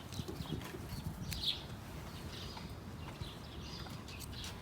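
Faint bird chirps recurring every second or so over a low background hum, with a few small clicks.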